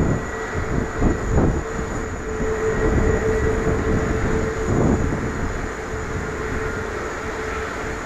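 Jet engines of a Korean Air Boeing 787-10 running at low power after landing, a steady whine over a low rumble, with a few brief gusty surges.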